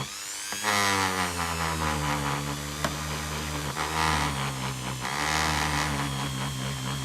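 Small electric power tool running, its motor pitch sagging and recovering several times as it is pressed into the work.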